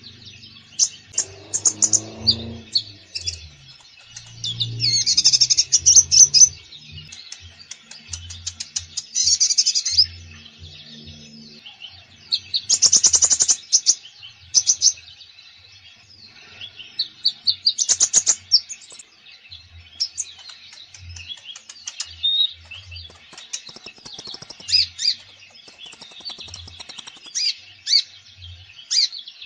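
A konin songbird singing energetically: bursts of rapid, high chirps and fast trills alternating with shorter calls, the full 'gacor' song with varied fill-in phrases.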